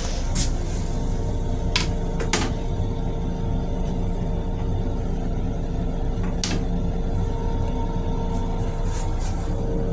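Steady low rumble and hum of an M7 commuter railcar heard inside its small restroom, with a few sharp clicks and knocks as the plastic toilet seat is handled.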